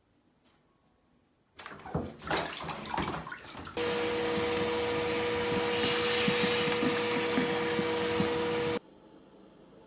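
A motor running steadily with a whine and rushing air for about five seconds, cutting off abruptly; just before it, a couple of seconds of irregular knocks and rustling.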